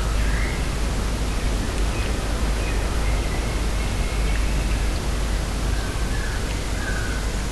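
Steady wind noise with a deep rumble, and faint short bird calls now and then.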